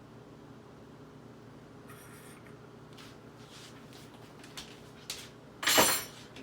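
Small handling noises: faint scraping and rubbing, then one loud sharp clatter near the end, over a steady low hum.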